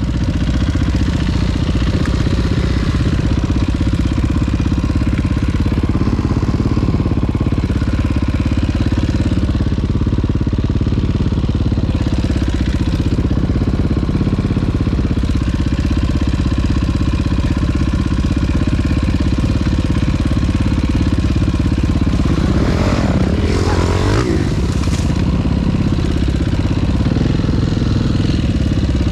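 Dirt bike engine running steadily at a constant load, with a brief rise and fall in revs about 23 seconds in.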